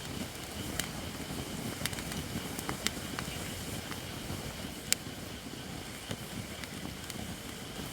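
Campfire of Japanese white oak (shirakashi) logs burning: a steady low rush of flame with scattered sharp crackles and pops, the loudest about five seconds in.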